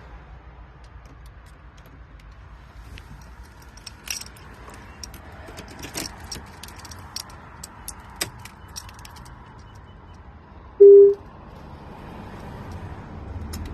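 Keys jangling and a run of sharp clicks, with one short, loud, steady electronic beep about eleven seconds in.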